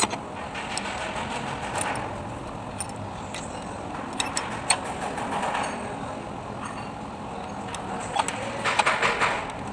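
Scattered metallic clicks and clinks of hand tools and small metal parts being handled, with a quick run of clinks near the end, over a steady background hum.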